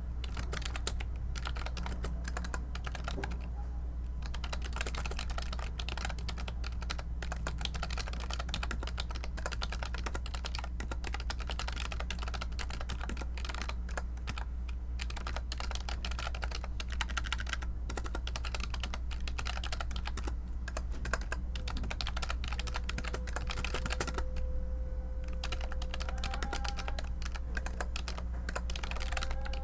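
Computer keyboard typing: quick, irregular keystroke clicks with a few brief pauses, over a low steady hum.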